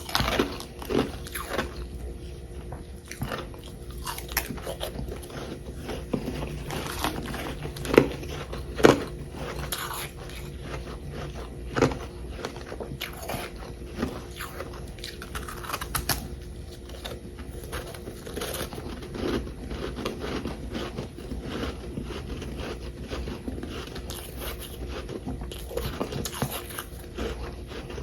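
Close-up crunching and chewing of frozen humidifier-frost ice chunks: irregular crackly bites and grinding chews, with a few sharper, louder crunches about a third of the way in.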